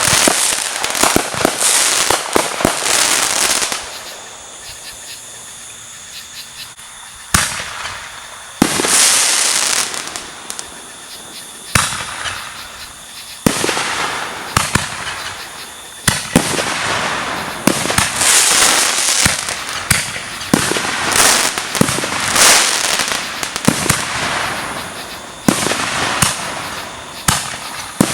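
Fireworks going off: sharp bangs of bursting shells over continuous crackling. The noise drops to a lull for about three seconds a few seconds in, then a string of loud bangs sets the crackling going again.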